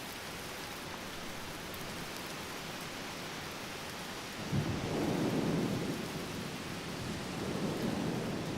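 Steady rain falling, then about halfway through a roll of thunder breaks in with a sudden low crack and rumbles on, swelling again near the end.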